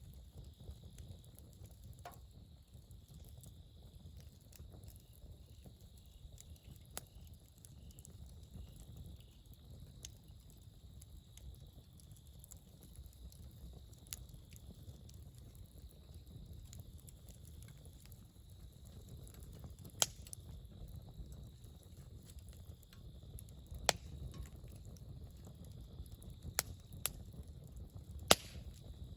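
Wood campfire crackling: scattered sharp pops and snaps of burning wood, a few louder ones in the second half, over a low steady rumble.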